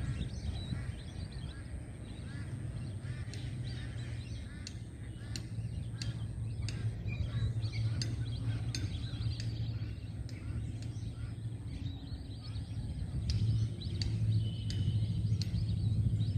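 Birds calling and chirping at a wetland, many short calls overlapping, over a steady low rumble.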